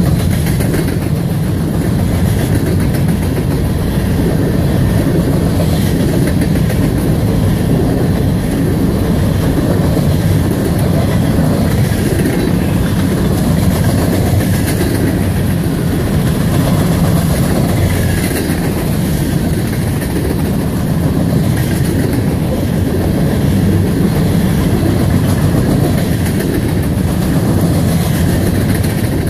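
Norfolk Southern covered hopper cars of a freight grain train rolling past close by: steel wheels running on the rails in a steady, continuous rolling noise.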